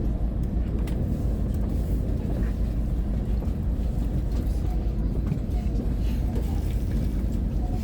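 Shinkansen bullet train running, a steady low rumble heard inside the passenger car, with a few faint clicks.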